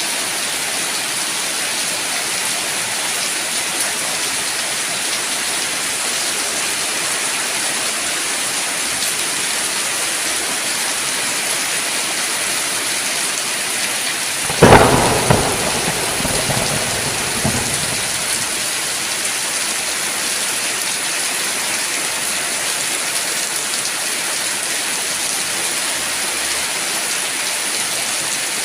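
Steady heavy rain falling, a constant even hiss. About halfway through a single sharp thunderclap cracks loudly and rolls off into a rumble over a few seconds.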